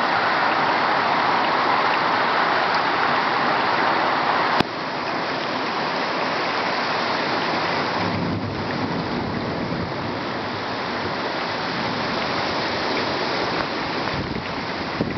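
Heavy rain pouring steadily in a thunderstorm, with a low rumble of thunder coming in about halfway through. A single sharp click sounds about a third of the way in.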